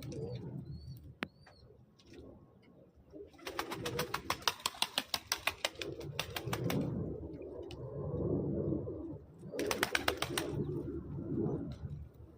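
Pigeons cooing steadily while bathing, with two bouts of rapid splashy wing-flapping in the water: a longer one of about three seconds, and a shorter one later.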